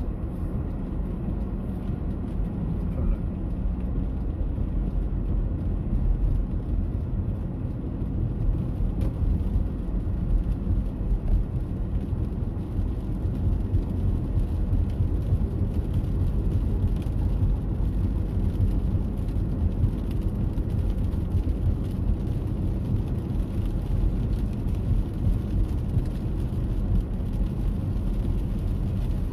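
Steady heavy rain: a continuous, low rumbling wash of noise with no breaks.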